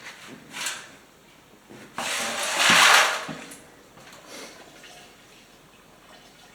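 Cleaning solution gushing out of a steel fuel tank's drain hole and splashing into a bucket. It starts suddenly about two seconds in, is loudest for about a second, then dwindles to a faint trickle.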